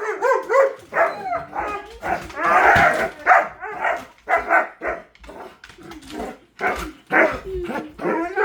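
Several dogs barking and yelping excitedly in a rapid, overlapping string of short calls, with a louder, harsher stretch about two to three seconds in. It is their excitement at being asked to go for a ride.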